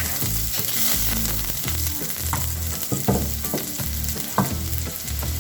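Minced garlic sizzling in hot cooking oil in a frying pan, with a spatula now and then clicking and scraping against the pan as it is stirred.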